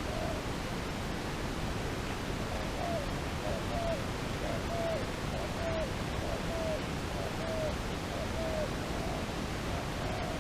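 A dove cooing: a series of about eight short, low coos, each falling at its end, a little under a second apart, over a steady hiss.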